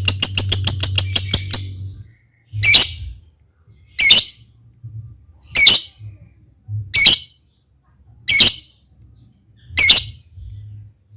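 Lovebird's rapid chattering trill (ngekek), about seven shrill notes a second, ending about two seconds in. It is followed by six single shrill chirps about a second and a half apart.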